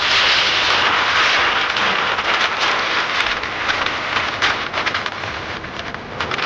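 Speedboat under way at speed: a loud, steady rush of wind and water spray over the engine, broken by many short sharp knocks and splashes.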